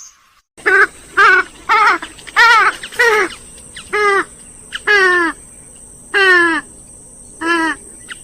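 Grey-headed swamphen calling: a series of about nine loud, short calls, each falling in pitch at its end, repeated every half second to a second and starting about half a second in.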